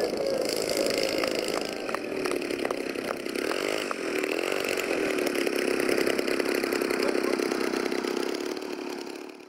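Small model-airplane engine running, its pitch wavering and dipping about four seconds in before holding steady, with a few sharp clicks in the first half. It fades out at the end.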